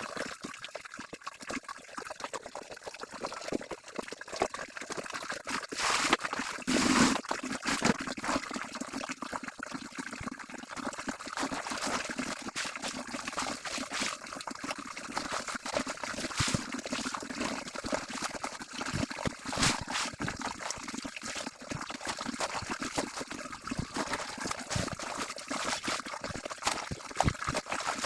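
Water splashing and trickling irregularly as laundry is washed manually, with a louder burst of splashing about six to seven seconds in.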